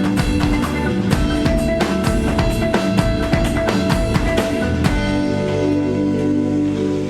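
A band rehearsing: drum kit playing a steady beat with bass and guitar. About five seconds in the drums stop and a held chord rings on.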